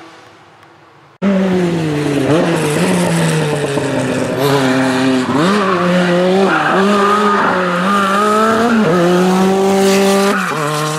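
Group B rally car engine driven hard, cutting in abruptly about a second in after a quieter engine fades. Its revs climb and drop again and again through gear changes and lifts. Near the end it settles to a lower, steadier note.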